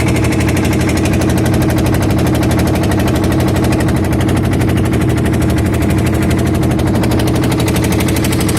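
An engine running steadily, with a fast, even chugging and a steady hum.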